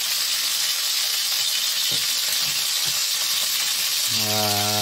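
Chicken leg quarter frying in hot oil in a nonstick pan: a steady sizzle with a few faint crackles. A voice comes in briefly near the end, holding one sound for about a second.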